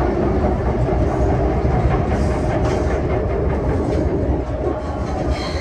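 MTR Disneyland Resort Line M-Train running along the track: a steady rumble of wheels on rail, with a faint steady tone running through it.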